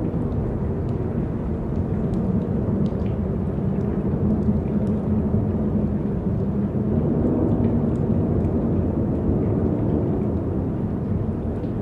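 Steady low rumbling wind, swelling a little about two-thirds of the way through, with a few faint light ticks above it.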